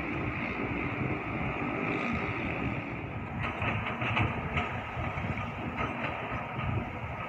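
Low, steady rumble of a train on the line, with a constant high hiss over it and a few faint irregular clicks from about halfway through.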